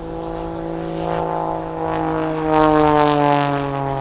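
Rich Goodwin's jet-boosted Pitts Special biplane flying past: its propeller engine note swells to its loudest about three seconds in and slides steadily down in pitch as the aircraft passes.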